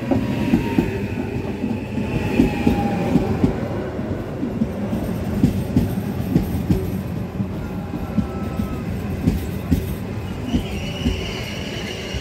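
Trenitalia ETR 521 'Rock' double-deck electric train rolling slowly into the station: its wheels clack over the rail joints a few times a second over a steady rumble. A high wheel and brake squeal grows near the end as it slows.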